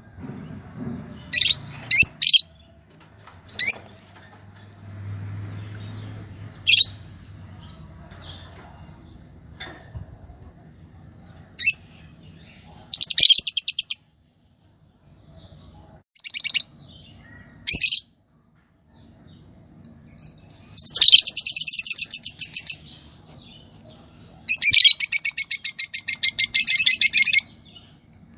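Pet lovebirds giving sharp, shrill single chirps here and there, with three longer bouts of rapid, high-pitched chattering, one about halfway through and two near the end.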